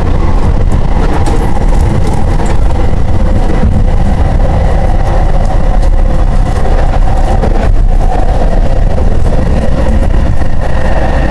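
SkyTrain car running, heard from inside the car: a loud, steady rumble with a thin, steady high tone over it.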